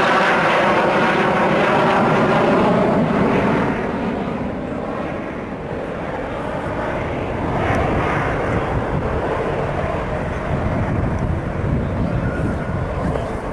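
Sukhoi Su-27 jet fighter flying past, its twin AL-31F turbofans loud and falling in pitch as it goes by. After about four seconds the sound fades to a lower, distant rumble.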